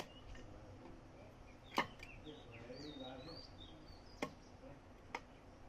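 Three sharp clicks, the loudest about two seconds in and two fainter ones later, from handling parts or tools during the work. Small birds chirp in short rising and falling notes in the background over a faint steady hum.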